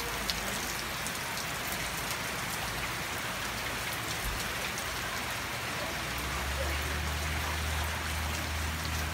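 Steady rain falling on garden plants and wet stone paving. About six seconds in, a low steady rumble joins, from water pouring out of a downspout pipe into a full basin.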